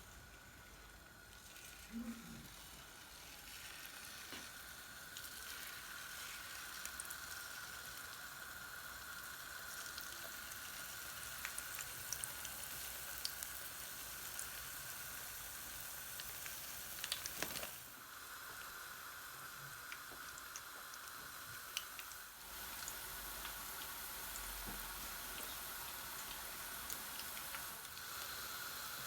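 Hot oil sizzling and crackling as jalebi batter fries, a steady hiss dotted with small pops, with a couple of brief knocks.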